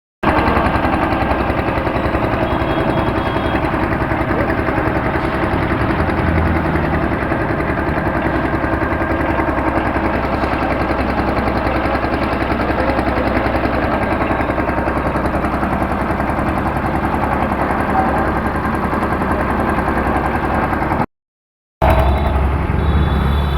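Concrete mixer machine running: a steady mechanical din with a fast rattle. Near the end it breaks off for a moment and resumes with a deeper hum.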